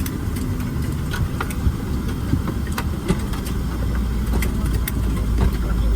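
Cabin noise of a Boeing 767-300ER taxiing in after landing, with a steady low rumble of the engines at idle and the rolling aircraft. Many small clicks and knocks from cabin fittings run through it, and the rumble grows a little heavier near the end.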